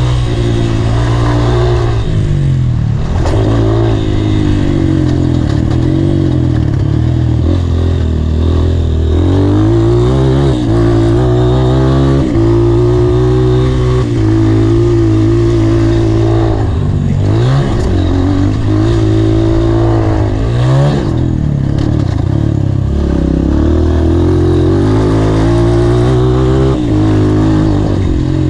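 Honda CRF230's single-cylinder four-stroke engine under hard riding, revving up and down continuously. The pitch climbs, then drops suddenly several times as the rider shifts gears or rolls off the throttle.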